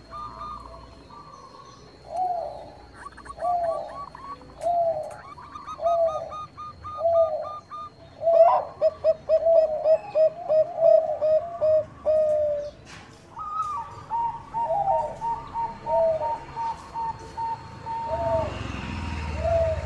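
Zebra doves (Bangkok perkutut) cooing. A run of single coos about a second apart quickens into a rapid string of short notes, about three a second. A second, higher-pitched dove calls over them near the start and again later.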